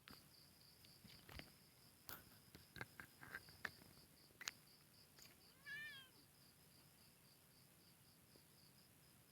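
A kitten meows once, briefly, about halfway through, with a few faint clicks and rustles before it. A steady, pulsing insect chirr runs underneath.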